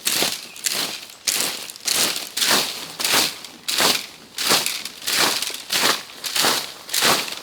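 Footsteps crunching through dry leaf litter at an even walking pace, one crackly step about every two-thirds of a second.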